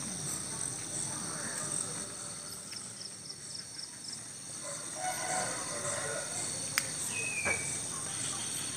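Countryside ambience: steady high-pitched chirring of crickets and other insects with evenly pulsing trills, and faint animal or bird calls plus a sharp click in the second half.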